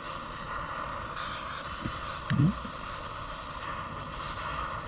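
Handheld gas torch burning with a steady hiss as it heats a copper pipe joint for soldering. A short voice sound comes about halfway through.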